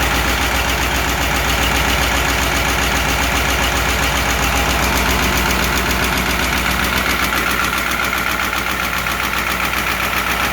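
Caterpillar 3208 V8 diesel in a White 2-180 tractor idling with a steady, even pulse, still running cold after a start at 18 degrees with no ether or block heater.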